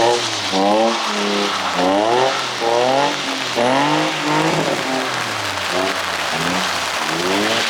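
A car engine revving up and dropping back again and again, about once a second, as it is driven sideways in a drift on wet pavement. Under it runs a steady hiss of rain and wet tyres.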